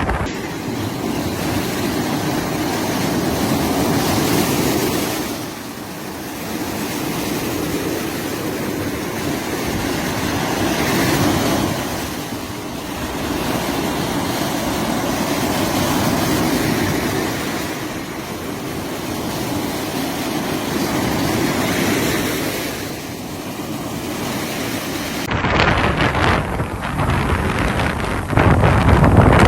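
Sea surf breaking and washing on a beach, swelling and falling back about every six seconds. Near the end it cuts abruptly to louder, gusty wind rumbling on the microphone over the surf.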